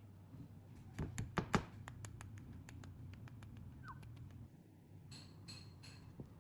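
Clicks and light knocks of small engine parts and hand tools being handled on a workbench, with a few louder knocks about a second in and scattered smaller clicks after, over a low steady hum.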